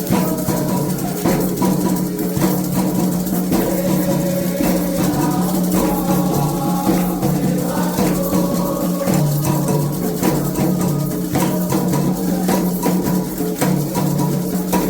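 Candomblé ritual music: hand drums played in a steady, dense rhythm with rattles and small percussion, with voices singing over them.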